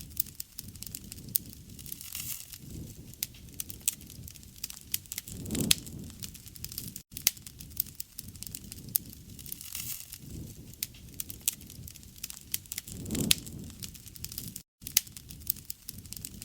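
Wood campfire crackling: irregular sharp pops and snaps over a low rumble of flame that swells twice, with a momentary break in the sound about seven seconds in and again near the end.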